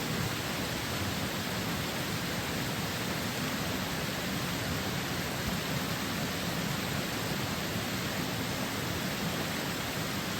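Steady, even rush of rain and river water, with no breaks or distinct events.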